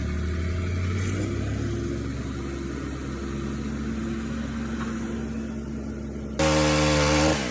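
An engine running steadily at a low, even pitch; about six seconds in it cuts abruptly to a louder engine sound with a clear, even pitch for about a second.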